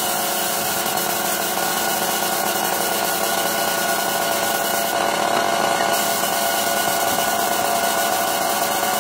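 A power tool running steadily at constant speed, a steady whine over a rough hiss.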